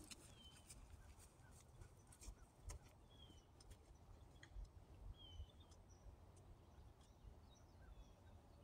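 Near silence with a few faint, short, high bird chirps scattered through it and some faint ticks.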